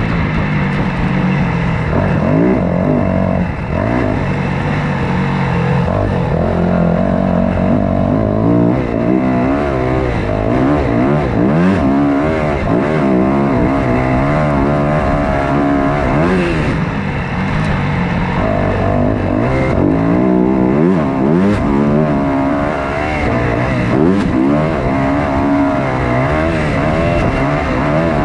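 Motocross dirt bike engine under race load, revving up and dropping back again and again as the bike works around the track.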